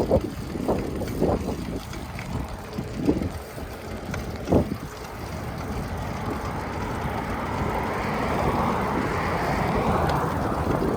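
Wind buffeting the microphone in low rumbling gusts, with a few short knocks in the first half; from about halfway a rushing gust builds and grows steadily louder.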